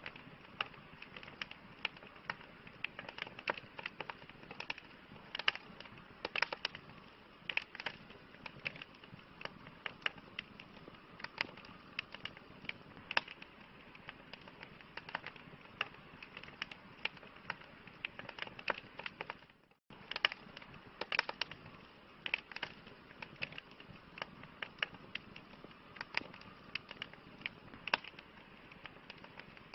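Campfire crackling: irregular sharp pops and snaps of burning wood over a soft, steady hiss. It cuts out for a moment about two-thirds of the way through.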